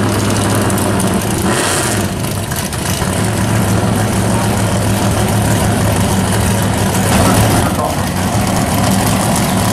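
Two drag cars' engines idling loudly as the cars creep into stage at the start line, a Chevelle wagon and a 1930s coupe, with a short burst of hiss about a second and a half in and again near the end.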